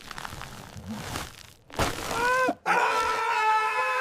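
A short cry that bends in pitch, then a long, steady, drawn-out vocal note held at one pitch for over a second.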